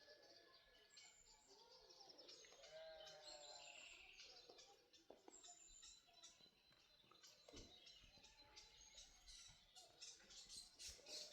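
Faint birds chirping throughout, with a bleat from a farm animal about three seconds in.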